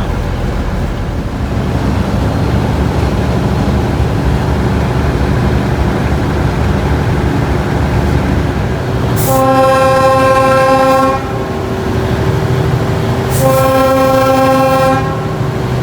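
Diesel locomotive engine running steadily, with its chime air horn sounded in two long blasts of several notes at once, each about two seconds. These are the two longs that open the grade-crossing signal.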